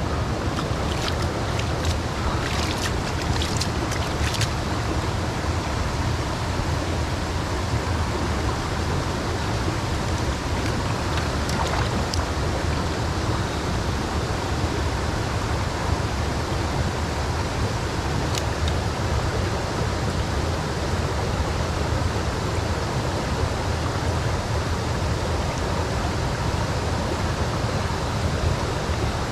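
Mountain stream rushing steadily. A few light clicks or ticks in the first few seconds.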